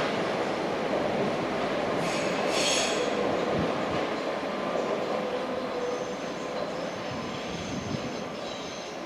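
Train running on the rails, its wheels squealing sharply about two and a half seconds in and more faintly again from about six seconds, over the rumble of the train, which fades slowly.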